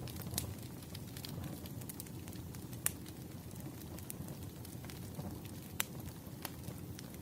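Wood fire crackling: a steady low rumble of flames with scattered sharp pops and snaps, a few louder ones about three and six seconds in.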